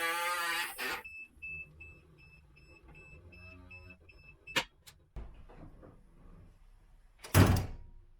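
A quick run of short, high electronic beeps, about three a second, stopping about four and a half seconds in. Two sharp clicks follow, then a loud brief burst of noise near the end.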